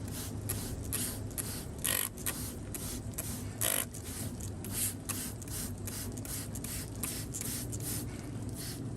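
Hoof knife paring away the sole of a cow's claw in short, irregular scraping strokes, over a steady low hum.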